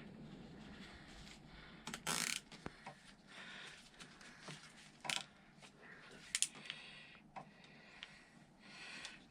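Faint handling noises of workshop work: a few scattered clicks and a short scraping rasp about two seconds in, over quiet room tone.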